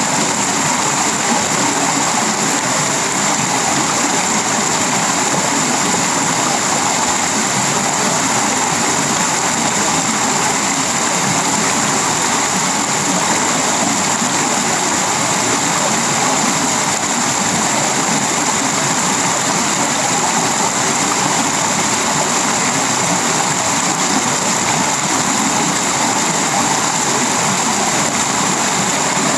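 Tropical rain falling steadily on a sheet-metal roof, wood and leaves: a dense, even rushing hiss that does not let up.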